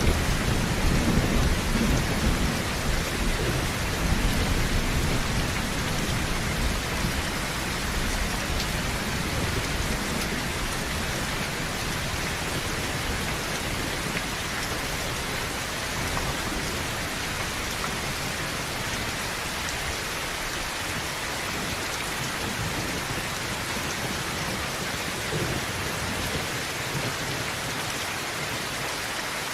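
Heavy rain on a tin roof, a steady dense hiss, with a low thunder rumble during the first few seconds that fades away.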